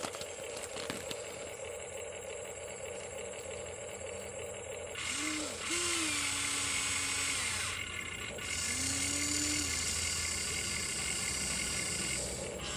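Huina 1593 RC excavator's small electric motors and plastic gearboxes whirring in two bursts of about three seconds each, about five and eight and a half seconds in, over a steady hum.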